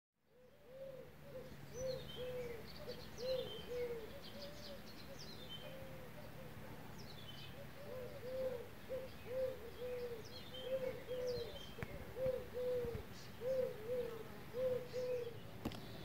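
Birds calling: one bird repeats a low note over and over, about two to three times a second, while small birds add sharp, falling chirps above it.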